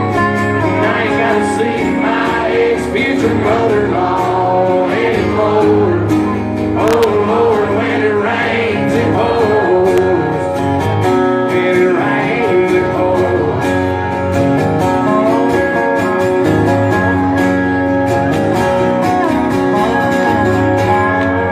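Live country band playing an instrumental stretch of the song, a guitar carrying the lead over a steady rhythm section.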